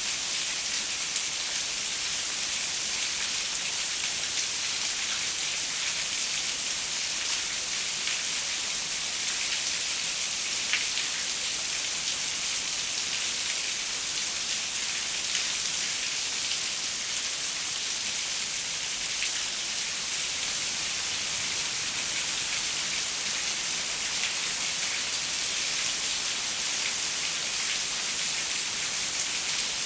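Steady rain pattering on a window, an even hiss with scattered individual drop ticks.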